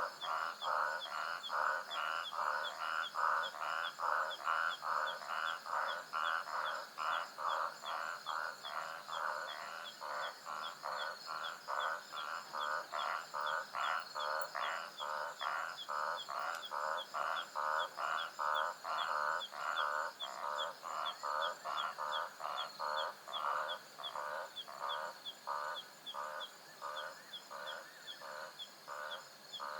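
Night-time savanna animal chorus: a pulsing call repeated steadily about two to three times a second, over a faster high chirp and a steady high hum.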